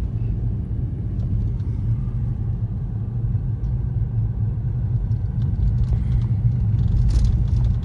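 A car driving, a steady low rumble of engine and tyres on the road.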